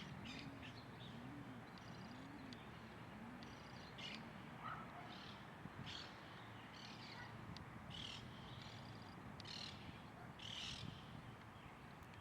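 Birds calling: short high chirps every second or so, with a run of low, rounded notes repeating about every half second during the first few seconds.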